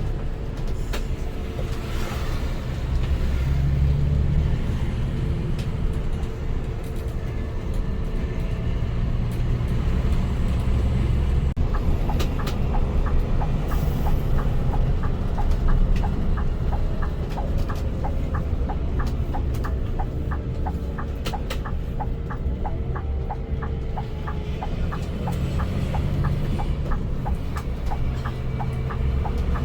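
Scania-engined coach bus on the move: a steady low engine rumble with road noise, and a regular light clicking through the second half.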